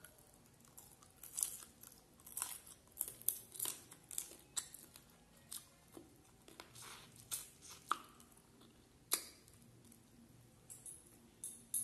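Close-up mouth sounds of eating rice and prawn curry by hand: chewing with a run of short clicks and smacks, dense for about nine seconds and then sparse.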